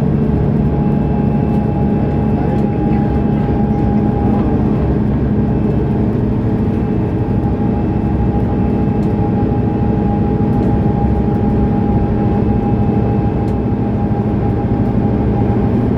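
Mercedes-Benz O530 Citaro Facelift Ü city bus engine running at a steady speed under way, with a thin steady whine over the engine note.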